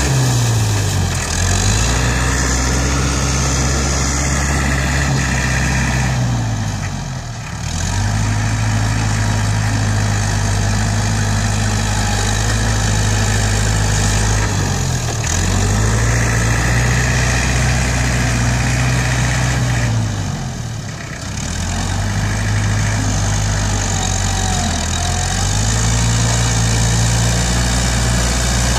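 ISEKI NT554 tractor's diesel engine running steadily, its note dropping and picking back up about five times.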